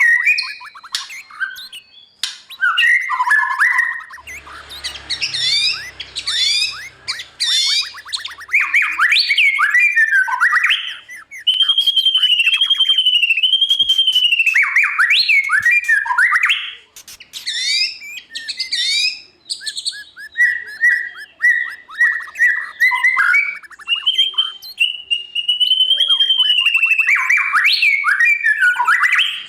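White-rumped shama singing a loud, varied song of whistled arching notes, rapid trills and quick chirps, phrase after phrase with short pauses.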